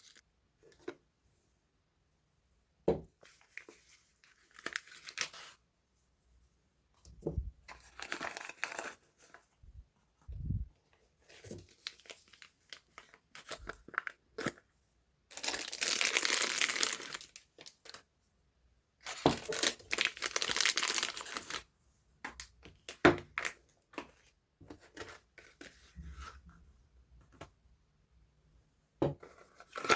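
Packaging of soap bars being unwrapped by hand: irregular bouts of crinkling and tearing wrapper, with scattered taps and clicks between them. Two longer, louder bouts of rustling come about halfway through.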